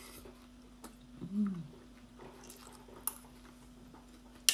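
A person chewing a raw oyster, close to the microphone: soft wet mouth clicks and smacks, a brief hum about a second and a half in, and one sharp click near the end, the loudest sound here.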